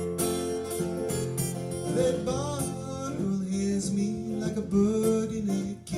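Live acoustic guitar music, with singing coming in about two seconds in over the guitar.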